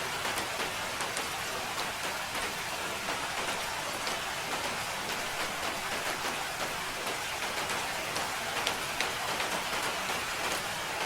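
Steady rain falling, an even hiss with individual drops ticking on a surface.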